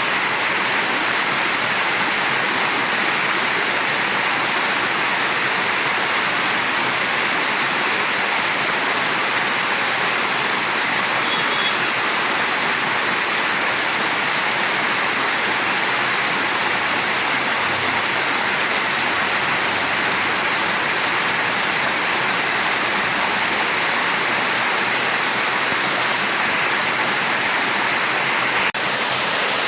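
Mountain stream rushing over rocks: a steady, loud water noise with no change.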